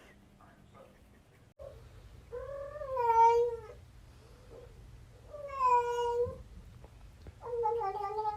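Domestic cat giving three long, drawn-out meows, each about a second long and wavering in pitch.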